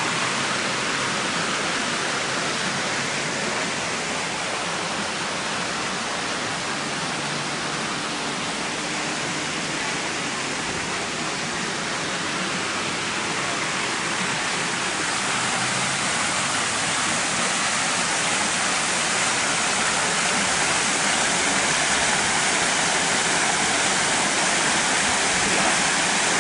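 Water falling steadily over a large artificial rock waterfall into its pond: a constant, even rush of water that grows a little louder in the second half.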